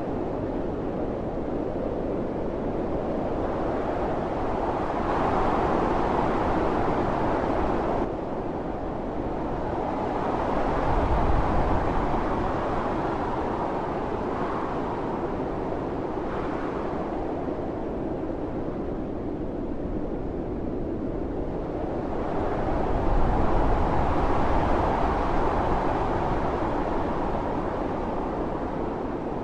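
Blizzard wind blowing in gusts: a steady rushing that swells and eases every several seconds, with low buffeting rumble at the strongest gusts. The level drops abruptly about eight seconds in.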